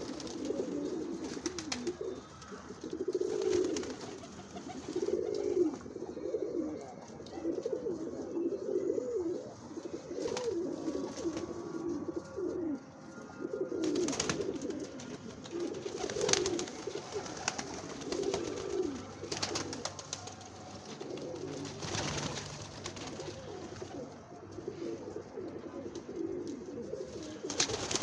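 Several doves cooing over and over, low wavering coos overlapping one another, with a few sharp clicks or taps in between.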